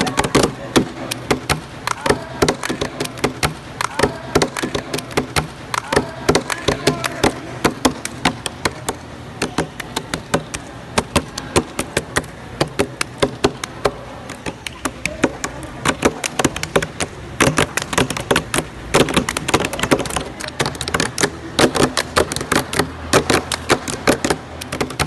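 Sharp taps or knocks struck in a steady rhythm, several a second, with faint voices in the background.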